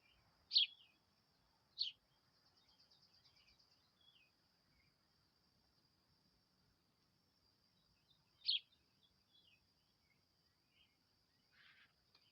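Small birds calling: three loud, sharp chirps (about half a second in, near two seconds, and about eight and a half seconds in), with a quick trill and soft scattered twitters between them, over a steady high-pitched drone.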